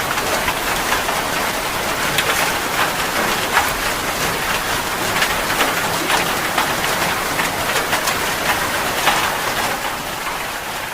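Heavy rain falling: a dense, steady hiss peppered with many sharp individual drop splashes, starting to fade down near the end.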